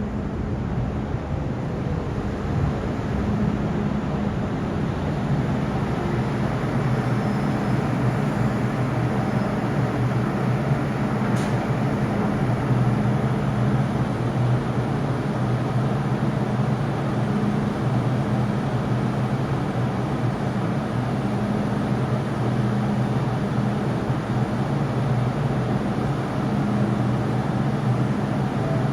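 MTR Island Line first-generation M-Train at the platform, a steady rumble with a low droning hum that holds at much the same level.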